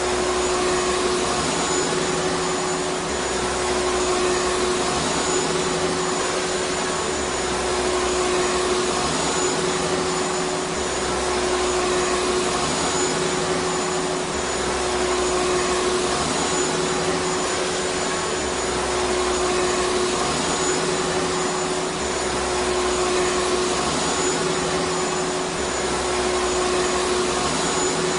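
Vacuum cleaner motor running steadily: a continuous rushing noise with a constant-pitched hum. The low end swells gently about every four seconds.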